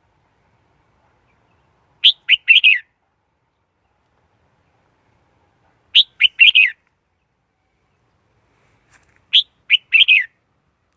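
Red-whiskered bulbul singing: three short phrases of several quick notes each, about four seconds apart, with silence between them.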